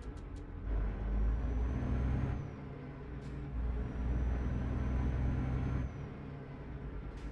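Truck engine heard from inside the cab, running steadily and twice growing louder for about two seconds at a time, with a brief drop between. A faint high whistle comes with each louder stretch, and there are a few short clicks.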